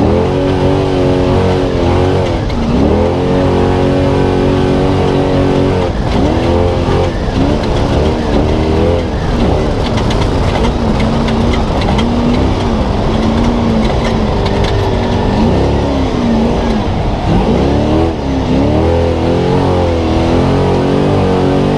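Race truck engine heard from on board at full race pace, its pitch repeatedly climbing, holding and dropping sharply with each lift off the throttle and gear change, over a constant rumble of tyres and suspension on the dirt.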